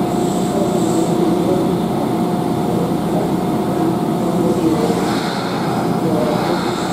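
Steady machine drone with a constant whine from a Kintetsu 20000 series train standing at the platform, its onboard equipment running while it waits.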